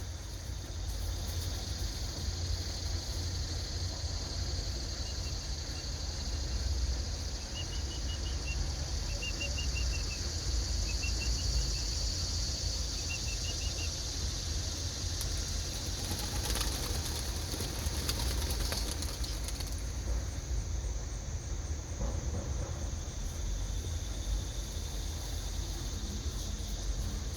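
A flock of racing homing pigeons flapping their wings as they are released from their crates, over a steady low rumble of wind on the microphone and a steady high insect drone. A few short runs of high chirps come in the middle.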